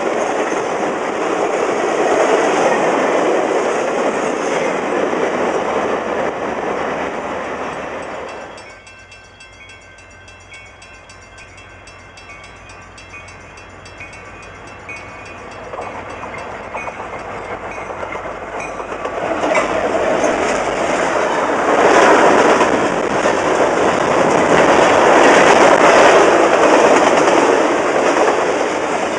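Freight train cars rolling past with steel-wheel clatter on the rails. The noise cuts off abruptly about a third of the way in, leaving a quieter stretch with faint steady high tones. A train then builds up again and rumbles past loudly through the last third.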